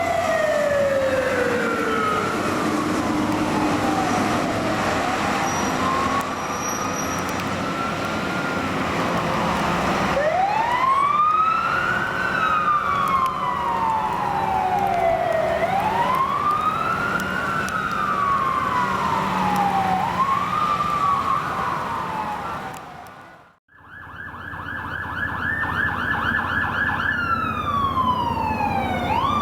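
An emergency-vehicle siren wailing in slow rising and falling sweeps over low vehicle noise. After a sudden break about three-quarters of the way through, a different siren sounds: first a fast rapid warble, then quick repeated falling sweeps.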